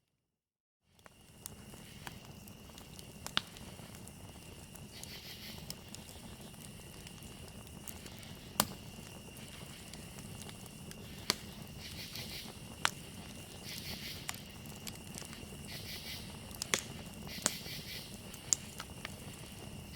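Campfire crackling, with sharp pops every second or few over a low steady rustle of burning wood. A steady high cricket trill runs beneath, joined now and then by short bursts of rapid insect chirping. It begins after about a second of silence.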